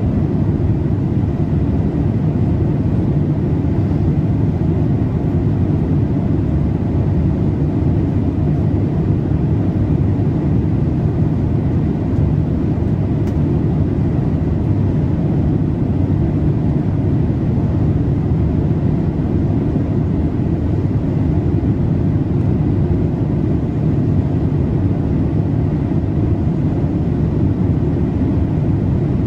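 Steady in-flight cabin noise of a Boeing 787-8 airliner: a constant low rush of engine and airflow noise, heaviest in the low end, with a faint thin steady whine above it.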